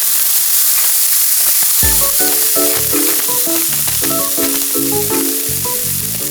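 Food sizzling as it fries in a hot pan, a steady crackling hiss, with background music coming in about two seconds in.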